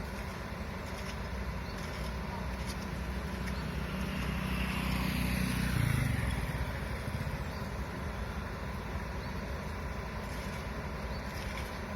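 A motor vehicle drives past, its engine growing louder to a peak about five to six seconds in and then falling away, over a steady low engine rumble.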